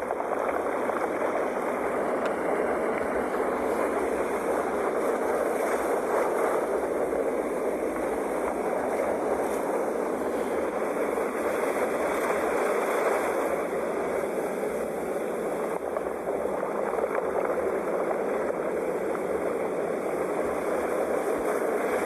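Sea waves washing in a continuous rushing noise, fairly even, with slight swells every few seconds.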